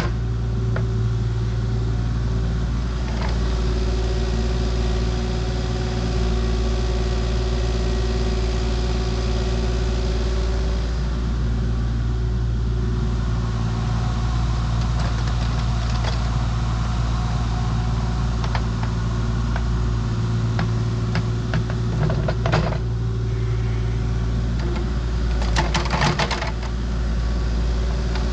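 Diesel engine of a compact construction machine running steadily at constant speed, with a few short metallic clatters near the end.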